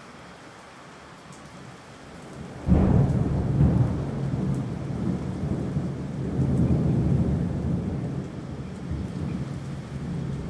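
Rain falling steadily, then a sudden loud thunderclap nearly three seconds in that rolls into a long rumble, swelling again a few seconds later before slowly fading.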